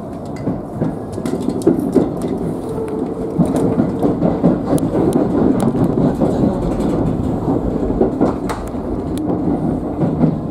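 Electric commuter trains running on the Keio Line: a steady rumble of wheels on rail, with irregular sharp clicks over the track.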